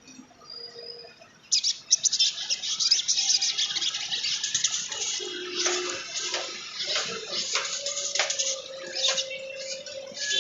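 Sunbird song: after a quiet first second and a half, a fast, dense, scratchy twittering chatter, with a few held notes beneath it near the end.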